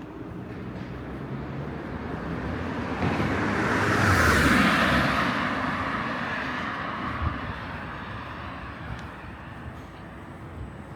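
A vehicle passing close by in the street, its noise swelling to a peak about four to five seconds in and then fading away, over steady city traffic noise.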